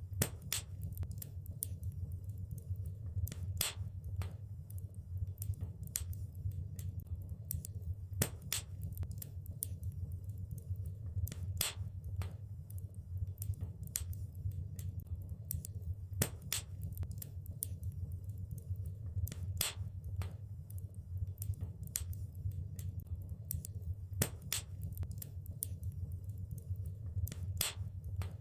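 Wood fire burning in a fireplace: a steady low rumble of flames with sharp, irregular crackles and pops, several a second, some much louder than others.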